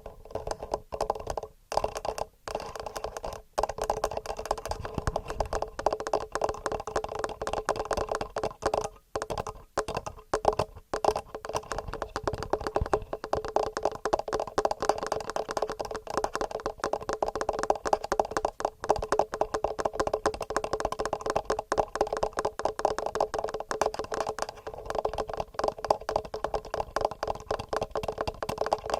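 Rapid fingernail tapping on a TASCAM recorder's microphones: a dense run of quick clicks, broken by a few brief pauses in the first eleven seconds.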